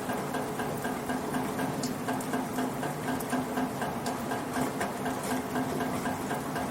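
Rain pattering, with water dripping in a rain gutter in a quick, even rhythm of about three to four drops a second.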